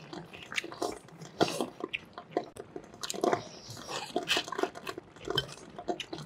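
A man chewing and smacking his lips as he eats mouthfuls of spicy grilled fish with chopsticks, in many short, irregular wet clicks.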